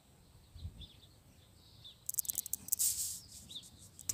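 Small birds chirping faintly in open countryside. About two seconds in comes a burst of crackling, rustling noise lasting about a second.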